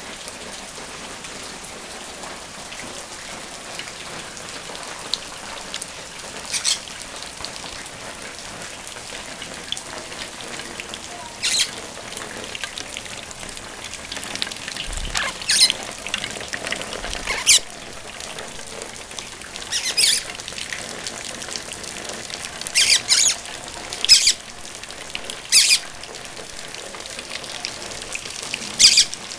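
Steady rain falling, with pet parrots giving short, high squawks about ten times, from about a quarter of the way in.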